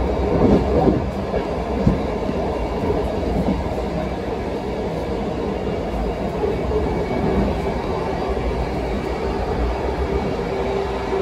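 Passenger train running along the track: a steady low rumble of wheels on rails, with a few short knocks in the first two seconds.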